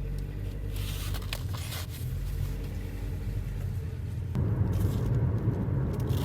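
Car running on the road, heard from inside: a steady low engine and road rumble that grows louder and rougher about four seconds in.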